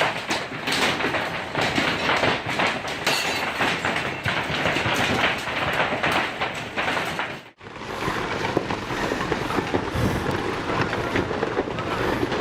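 Hailstones pelting hard surfaces in a dense, continuous rattle of rapid impacts. The sound cuts out abruptly about seven and a half seconds in, and a similar dense rattling noise, heavier at the low end, follows.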